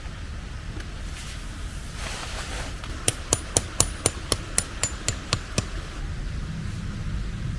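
A quick run of about eleven sharp metallic strikes, roughly four a second, each with a short high ring, starting a few seconds in and stopping after about two and a half seconds.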